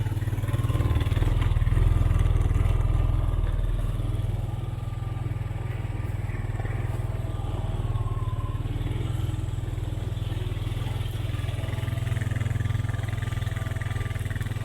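Four-wheeler engine running steadily as the vehicle drives along a trail, swelling a little louder for a couple of seconds about a second in.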